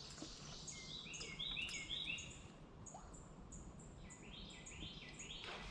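Birds chirping in repeated short high notes over faint outdoor background noise, with a brief click near the end.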